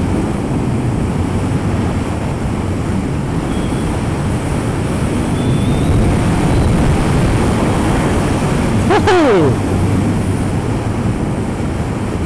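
Wind rushing over the microphone with road noise as the Zero SR electric motorcycle is ridden at speed, with no engine sound to be heard. A brief falling whine comes about nine seconds in.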